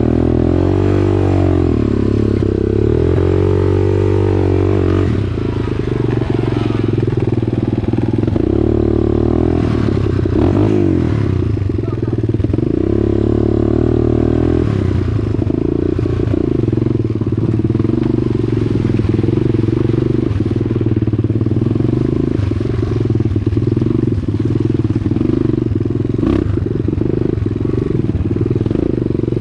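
Dirt bike engine running under way, revs rising and falling over and over as the rider works the throttle, with scattered clatter on top.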